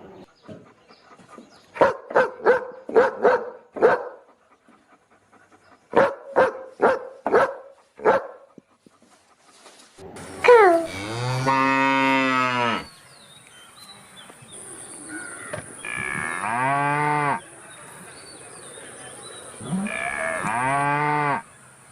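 A dog barks in two quick runs of about five barks each. A cow then moos three times, long drawn-out moos a few seconds apart, over a faint steady high-pitched hiss.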